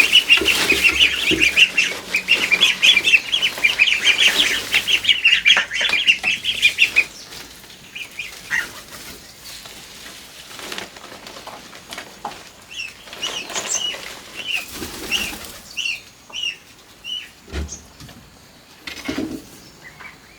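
Farm poultry calling: a dense chorus of rapid high-pitched peeps for about seven seconds, then thinning to scattered chirps, with a few short rustles of movement in the second half.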